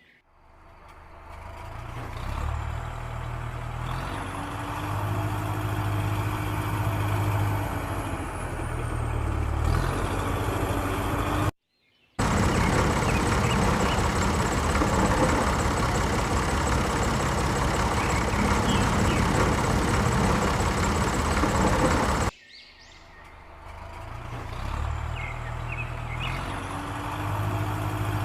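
A motor vehicle engine running steadily, in edited segments that cut off abruptly twice.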